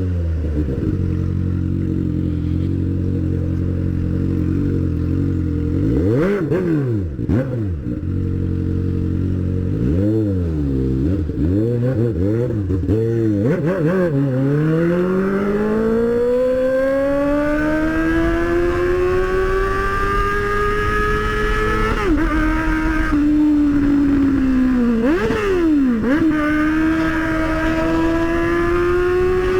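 A motorcycle engine heard from the rider's seat. It winds down and runs steadily at low revs for several seconds, then revs up and down in a series of short blips. After that it pulls in long rising sweeps, with a gear change and a brief dip in revs late on.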